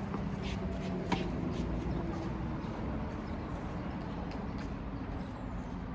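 A single sharp tennis ball impact about a second in, over steady low background hum, with a few fainter ticks.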